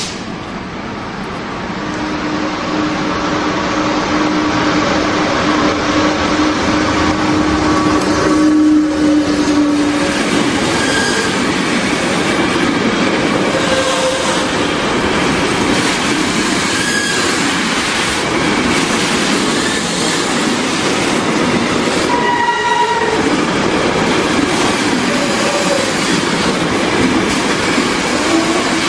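Container freight train running through the station close by: the train noise builds as it approaches, then the wagons roll past with a steady rumble and wheel clatter. A steady low tone sounds for about eight seconds as the head of the train goes by, and there are a few brief high-pitched wheel squeals.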